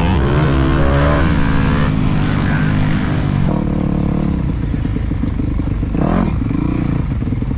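Motocross bike engine revving, its pitch rising and falling for the first second and a half, then settling to a lower, steady running for the rest.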